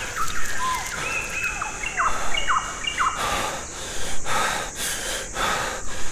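Birds chirping, with a run of short whistled notes in the first three seconds. From about three seconds in, quick heavy breathing takes over, a breath roughly every half second.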